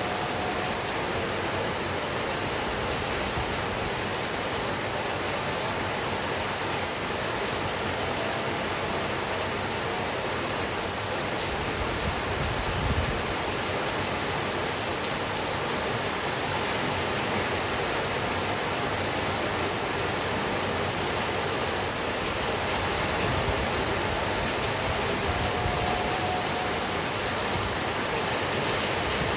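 Steady rain falling: an even hiss of rainfall with many small ticks of individual drops, at a constant level.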